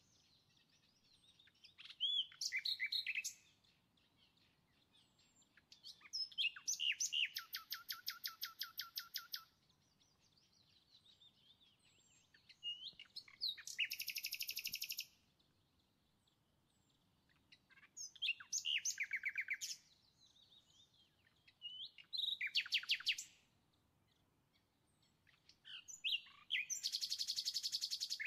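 A small songbird singing in short phrases about every four to five seconds, each a quick run of sweeping notes ending in a fast, even trill.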